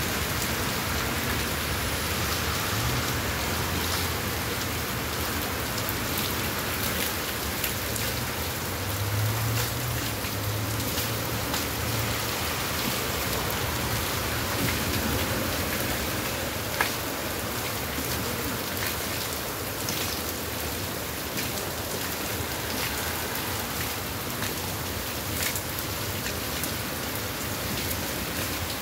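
Heavy rain pouring onto paved pavement and street: a steady, even hiss with scattered individual drop splats. A single sharp tap sounds a little past the middle.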